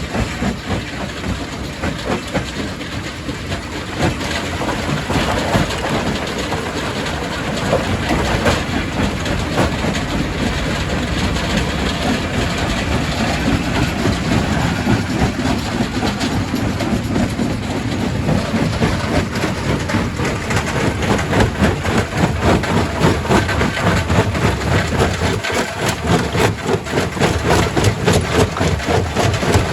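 Quarry primary rock crusher running, with rock cracking and knocking inside it over a continuous heavy mechanical rumble. The knocks grow busier and louder in the second half.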